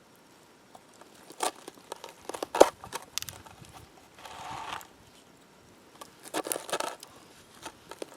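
Short bursts of crinkling and clicking, like something being crumpled or handled, in three or four separate clusters with quiet gaps between.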